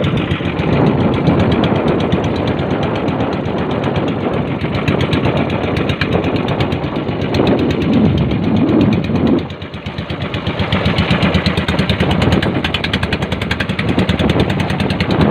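Engine of a motorized bangka (outrigger boat) running steadily with a fast, even pulsing beat, dipping briefly in loudness partway through.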